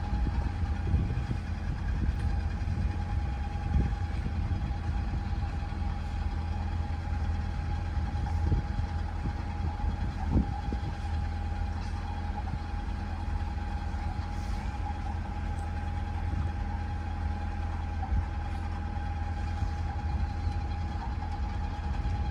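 Narrowboat's diesel engine running steadily at cruising speed, a constant low rumble with a steady hum above it.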